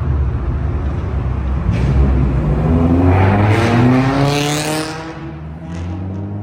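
Car engine with a loud exhaust running low, then revving and accelerating: its pitch climbs steadily from about two and a half seconds in, is loudest around four seconds, then fades away.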